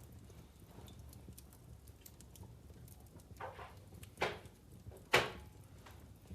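Wood logs burning in a fireplace, crackling with small ticks throughout and three louder pops in the second half, the last one the loudest.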